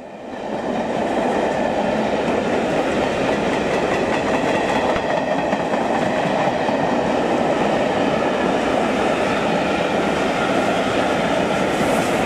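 Rake of passenger coaches rolling past close by on the through line: a steady rumble of wheels on rail that swells in the first second. There are sharper clicks near the end as the steam locomotive at the rear of the train draws level.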